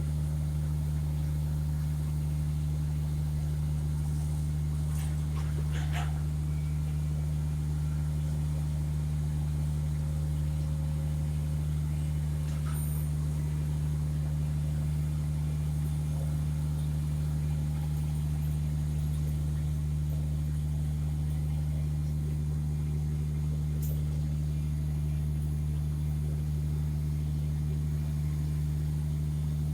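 Heavy diesel engine running steadily with a deep, even hum, with a few brief knocks at about 6, 13 and 24 seconds.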